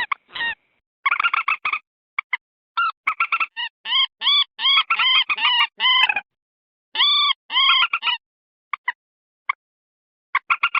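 Common moorhen calling: strings of short, clucking notes, several a second, broken by brief pauses, with a few single notes in between.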